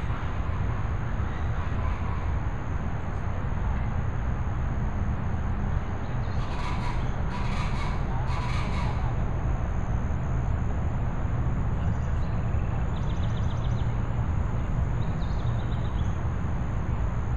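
A bird giving three harsh calls about a second apart, over a steady low rumble. Later come two short, rapid high trills from a smaller bird.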